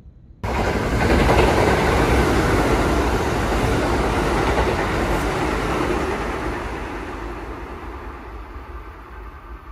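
Kintetsu train running past the station platform: the rumble of its cars and wheels starts suddenly, is loudest at first and fades away over several seconds as the train moves off.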